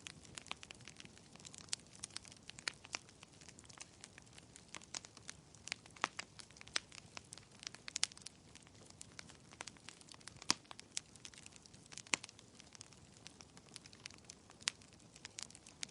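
Wood fire crackling in a fireplace: irregular sharp pops and crackles, several a second, over a soft steady hiss.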